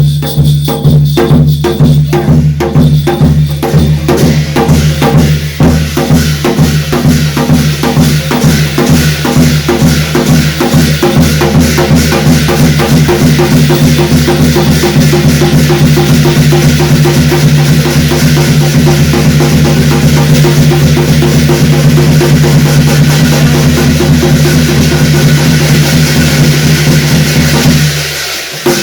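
Korean shaman-ritual percussion: fast drumming over a steady low hum, the beat speeding up over the first several seconds into a dense, continuous pounding with a growing metallic crash of cymbals. It stops suddenly near the end.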